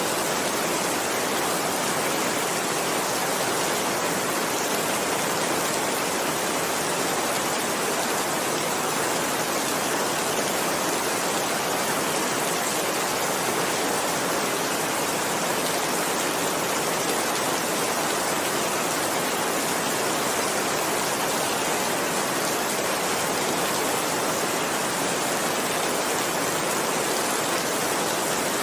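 Heavy rain falling steadily, a dense even hiss with no single drops or thunder standing out.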